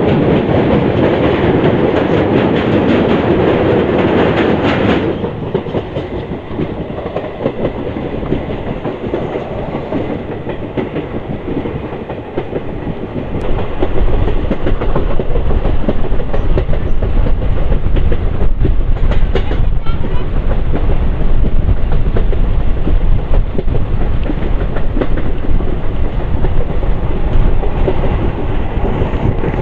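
Passenger train running on broad-gauge track, heard from on board: steady wheel-and-rail running noise that drops suddenly about five seconds in, then comes back louder and deeper about fourteen seconds in.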